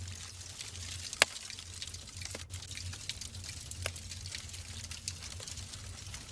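Logs burning in a wood fireplace: steady crackling with many small snaps and one sharp, loud pop about a second in, over a low steady hum.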